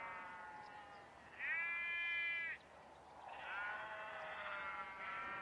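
A flock of sheep bleating: one loud, drawn-out bleat about a second and a half in, with other bleats overlapping before and after it.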